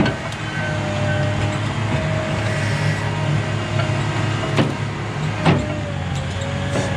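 Heavy diesel logging machinery running steadily, with a whine that wavers a little in pitch. Two sharp knocks come a second apart, past the middle.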